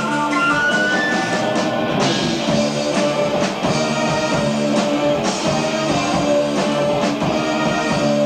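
Progressive rock band playing live, heard on an amateur tape recording: electric guitar and keyboards holding sustained notes over a steady drum kit beat.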